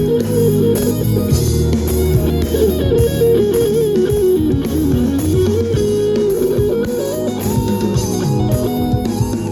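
Live band music with no singing: an electric guitar plays a melodic lead line that wanders down and back up, over bass and a steady beat.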